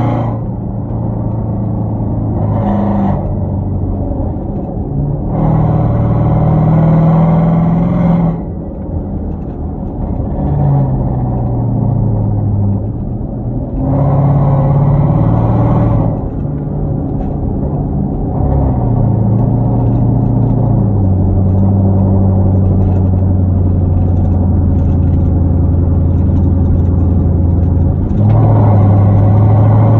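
Hyundai Genesis 5.0 V8 running through a straight-piped 2.5-inch exhaust with Flowmaster Super 10 mufflers and no catalytic converters, while driving. The exhaust note swells louder under acceleration about five seconds in, again midway, and near the end, with the pitch rising and falling through the gears, and settles into a steady drone while cruising in between.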